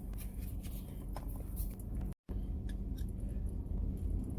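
Steady low hum of a car heard from inside the cabin, with a few faint clicks. The sound cuts out for an instant about halfway.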